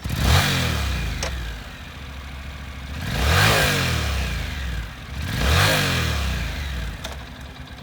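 Honda CTX700N's fuel-injected 700 cc twin-cylinder engine running, revved three times: a surge right at the start, then two more about two seconds apart, each rising and falling back to a steady idle.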